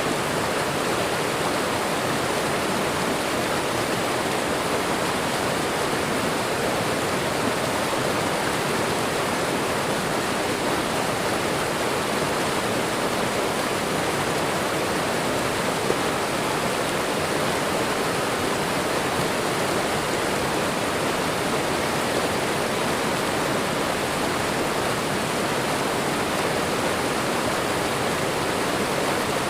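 Waterfall, water pouring and splashing in a steady, unbroken rush.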